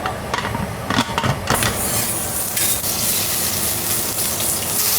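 A few knocks of cookware, then about a second and a half in a loud, steady hiss of cooking on the stove starts up and keeps going.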